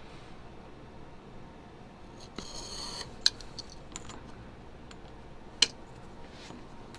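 Small workbench handling sounds while pattern pieces are laid out for cutting: a brief scrape or rustle about two and a half seconds in, and two sharp clicks.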